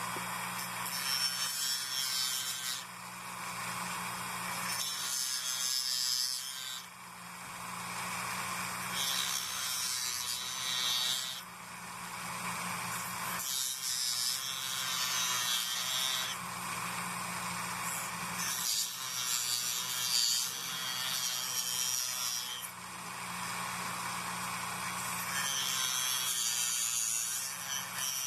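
Hand tool scraping back and forth in stroke after stroke, trimming a small part down to fit, in runs of a few seconds with short pauses between, over a steady low hum.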